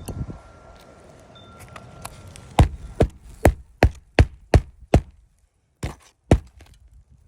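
Hammer striking nails into roof shingles: seven quick blows about 2.5 s in, then two more after a short pause.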